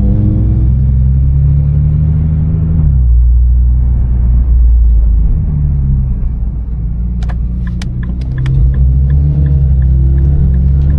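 Car engine heard from inside the cabin while driving, rising in pitch as it accelerates, dropping suddenly about three seconds in as it shifts, then pulling again. A few sharp clicks come in a cluster past the middle.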